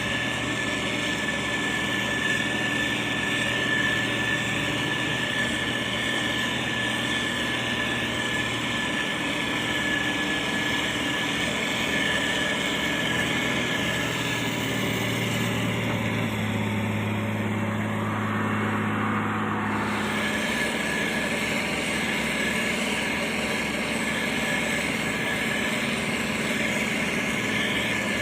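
Heavy road-construction machinery, a motor grader and a road roller, running steadily with a constant high whine over the engine noise. A deeper engine hum swells for several seconds past the middle, then drops back.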